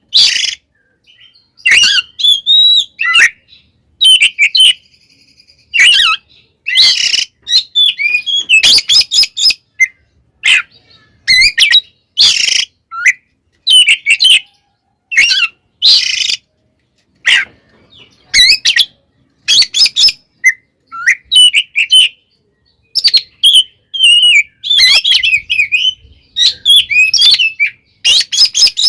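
Oriental magpie-robin (kacer) singing in loud, irregular bursts of quick chirped and whistled phrases, mixed with harsh, scratchy notes and separated by short pauses. This is the agitated fighting song ('tarung') that keepers play to provoke other kacer.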